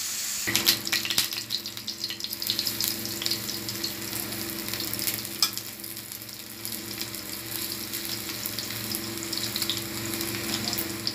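Batter-coated bitter gourd rings frying in hot oil in a pan: steady sizzling with dense crackling, over a low steady hum.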